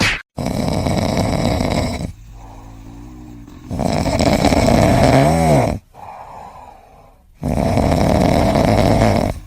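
A sleeping pet snoring loudly: three long snores, each about two seconds, with short quieter pauses between them.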